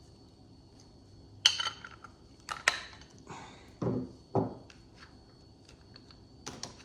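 Metal hand tools clinking and knocking as a 1-inch spanner is picked up and put to the power valve of a Holley carburettor's metering block: a few sharp clinks, then two duller knocks around four seconds in, and a run of small clicks near the end.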